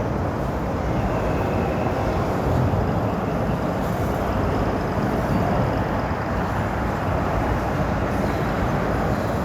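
Train rolling across a steel railroad drawbridge: a steady rumble of wheels on the rails, even in level throughout.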